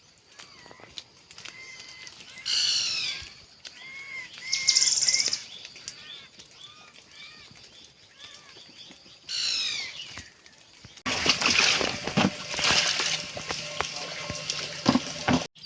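Wild birds singing: many short arched chirps repeated again and again, two louder calls that sweep downward in pitch (a few seconds in and just past the middle), and a brief buzzy trill. About two thirds through, a louder rough, crackling noise rises over the birdsong.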